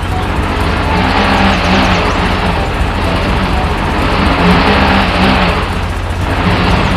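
An engine running steadily, swelling a little in level a few times as it revs.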